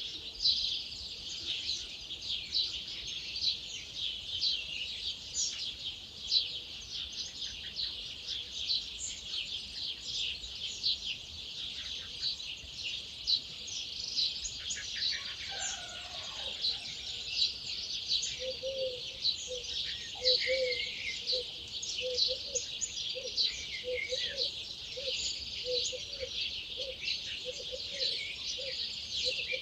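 Dawn chorus of many wild birds singing at once: dense, overlapping high chirps and trills. Partway through, a lower note repeated about twice a second joins in.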